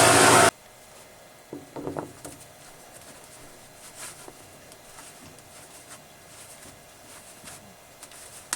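A loud, steady power-tool motor switches off abruptly about half a second in. It is followed by faint scattered taps and small handling clicks.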